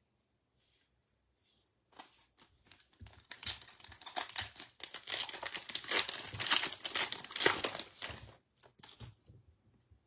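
Baseball card pack wrapper being torn open and crinkled by hand, a few seconds of dense crackling that starts about two seconds in and dies away near the end.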